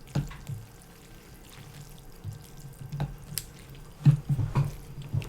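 Close-miked eating of janchi guksu, thin wheat noodles in broth: wet slurps and chewing, with a cluster of louder mouth sounds about four seconds in.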